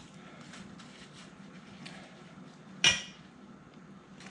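Faint kitchen handling noises, then a single sharp clatter of kitchenware about three seconds in.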